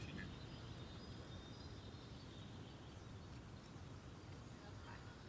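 Faint outdoor background ambience: a steady low rumble, with a faint thin high tone from about half a second in that lasts a couple of seconds.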